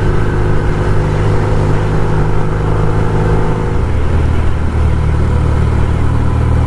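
1974 Norton 850 Commando's parallel-twin engine running under way, with wind and road noise. The engine note changes about four seconds in.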